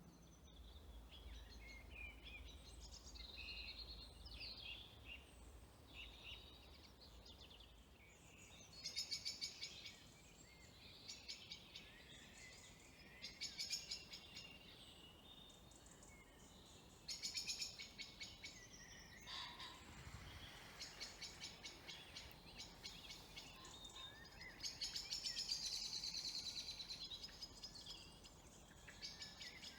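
Several songbirds singing in the dusk chorus: faint warbling phrases, broken every few seconds by louder bursts of rapid trilled notes.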